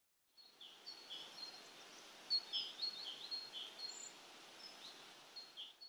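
Small birds chirping in quick, short, high calls over a steady outdoor hiss. The sound comes in a moment after the start and cuts off abruptly at the end.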